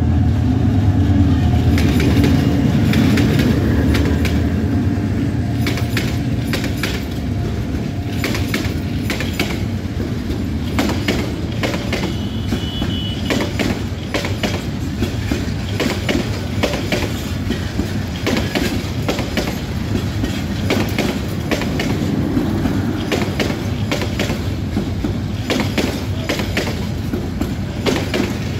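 A diesel locomotive hauls a passenger train close past, its engine rumble heaviest in the first few seconds. The coaches then roll by with a steady clickety-clack of wheels over the rail joints, and a brief high squeal about halfway through.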